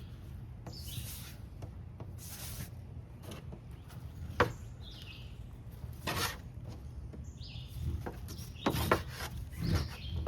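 Fire roll of cotton and mullein leaf being rolled hard back and forth between two wooden boards: a rough rubbing swish every second or two, with a sharp click about four seconds in.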